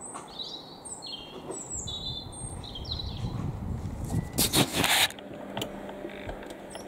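Small birds chirping and twittering with short high notes. About four and a half seconds in, a loud rushing noise lasts under a second.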